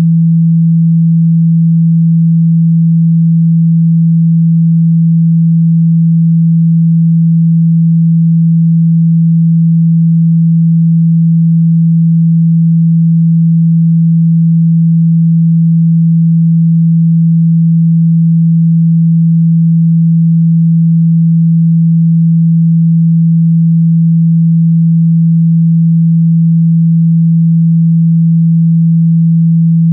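A steady, loud 165 Hz sine tone, one pure low hum that holds unchanged: a speaker-cleaning tone, played to shake water and dust out of a speaker.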